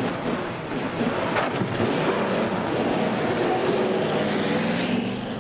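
A 1930s car engine running and revving as the car pulls away, its pitch shifting as it speeds up, with a single knock a little over a second in.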